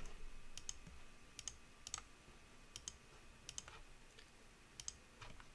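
Faint computer mouse clicks, scattered and mostly in quick pairs, as edges are selected in a 3D modelling program.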